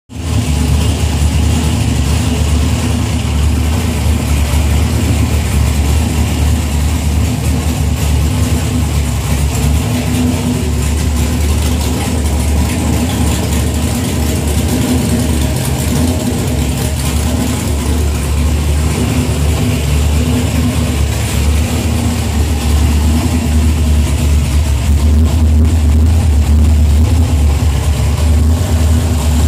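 Carbureted Ford small-block V8 running at a steady idle, getting a little louder for a few seconds near the end.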